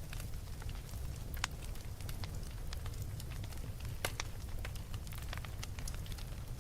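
Wood fire crackling: a steady low rumble of flames with irregular sharp pops and snaps, the loudest about one and a half seconds and four seconds in.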